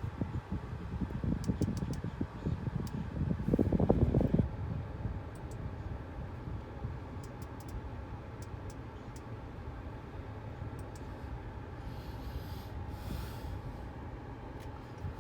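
Steady low hum inside a car cabin, with rumbling, rubbing handling noise in the first four seconds or so and a few faint clicks.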